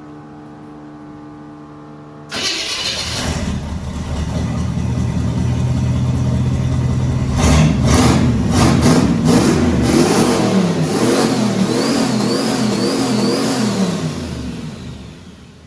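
Turbocharged 1962 Chevrolet engine, now on a new HEI electronic ignition: after a steady hum it suddenly gets much louder about two seconds in, then is revved repeatedly, in quick blips with a faint whine rising and falling along with them, before dropping back near the end.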